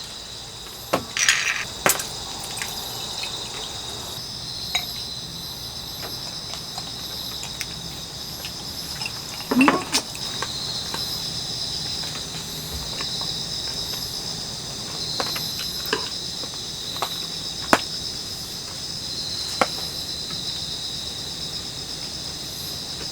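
Crickets chirring steadily in a high, pulsing drone, with a few sharp clinks and knocks of utensils and dishes over it.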